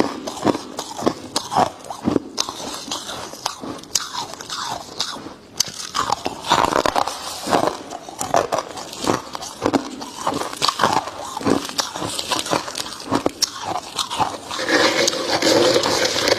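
Freezer frost being bitten and chewed close to the microphone: irregular crisp crunches, often several a second. A steady hum joins in near the end.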